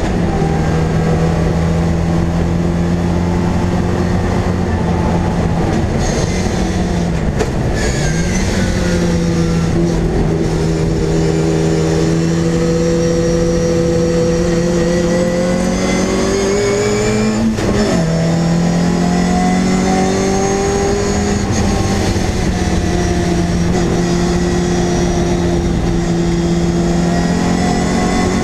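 MG Midget race car's four-cylinder engine running hard under racing load, heard from inside the cockpit. Its pitch dips and climbs back about seven seconds in, and drops abruptly at a gear change about eighteen seconds in.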